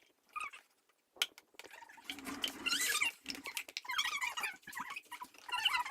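Large ice ball in a pot of boiling water, giving off a dense run of short, wavering squeaks and chirps over a hiss as it melts. This starts about two seconds in.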